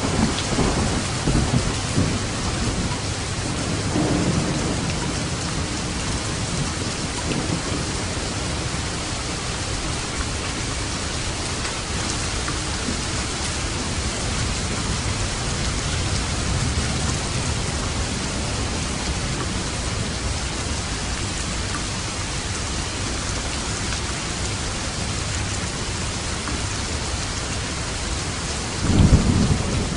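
Steady heavy rain falling in a thunderstorm. Low thunder rumbles in the first few seconds, and a louder rumble comes near the end.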